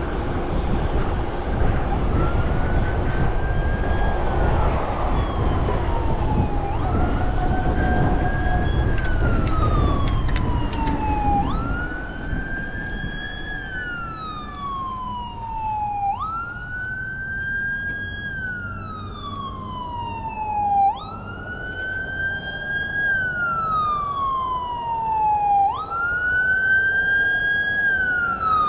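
Emergency vehicle siren wailing, each cycle rising quickly and then falling slowly, repeating about every five seconds and growing louder and clearer as it approaches. Under it, car road noise rumbles for the first ten seconds or so.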